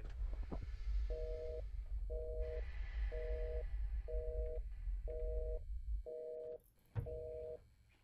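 Telephone busy signal: two steady tones sounding together, pulsing on and off about once a second, half a second on and half a second off, starting about a second in. A low hum underneath drops out about six seconds in, and a single thump comes about a second later.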